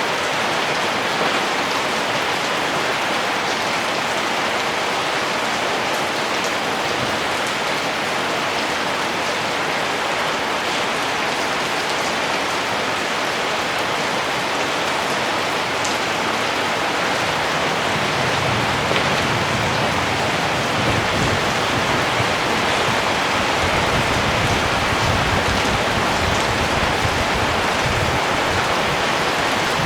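Steady rain: a dense, even hiss with scattered drop ticks. A low, uneven rumble joins underneath about two-thirds of the way in.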